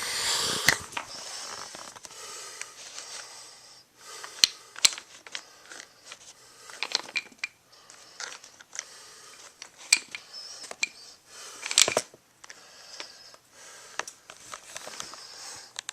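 Scattered clicks, taps and light clattering of small plastic toy pieces being handled and knocked together, with a louder rustle about a second in and sharp clicks near 4.5, 7, 10 and 12 seconds.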